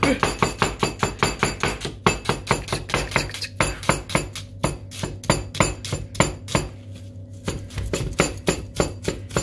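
Kitchen knife chopping onions on a cutting board in a fast, even rhythm of about five strokes a second, with a short break about two seconds in and slower, sparser strokes near the end.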